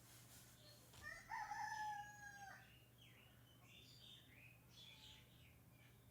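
Faint bird calls in the background of a voice test recording, played back through noise reduction. One drawn-out call of about a second and a half rises, holds and falls, then a few short chirps follow.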